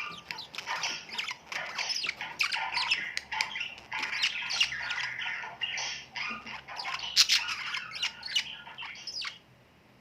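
Many birds chattering together in a dense, busy run of squawks and chirps that cuts off suddenly near the end.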